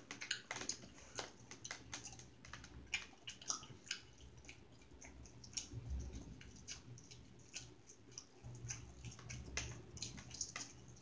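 A person chewing food with open-mouthed, wet smacking and clicking, an irregular run of several short mouth clicks a second.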